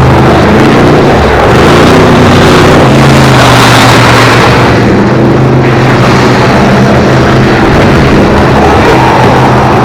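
Several car engines running and revving hard as the cars race around a speedway, very loud throughout. Their overlapping pitches shift up and down under a dense, rough noise.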